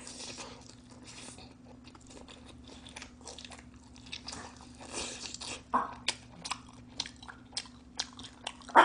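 A person biting into and chewing a slice of combination pizza close to the microphone, with crunching and short wet mouth clicks that come more often in the second half.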